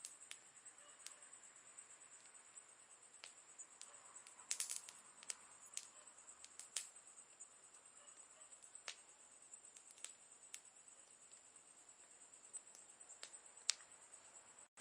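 Campfire crackling faintly: scattered sharp pops and snaps of burning wood, a quick cluster about four and a half seconds in and the loudest single snap near the end, over a steady high-pitched hiss.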